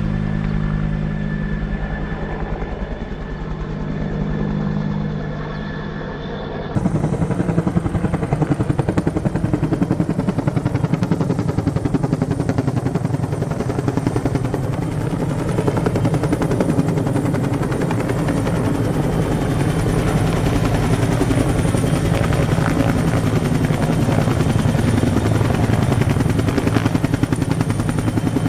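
A steady engine hum for the first seven seconds or so, then an abrupt change to the close, fast, steady chop of a firefighting helicopter's rotor with a high turbine whine above it.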